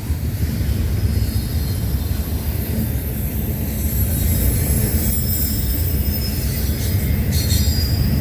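Intermodal freight cars rolling past close by: a steady rumble of steel wheels on rail with thin, faint high-pitched wheel squeal, and a few sharp clicks about seven seconds in.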